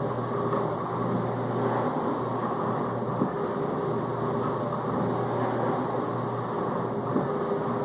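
Whirlpool dishwasher in its main wash with detergent: the circulation pump runs with a steady hum while water sprays and splashes inside the tub, with a couple of light knocks now and then.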